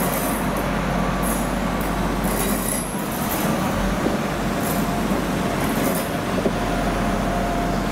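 A train at a station: steady running rumble, with several brief high-pitched squeaks at irregular intervals.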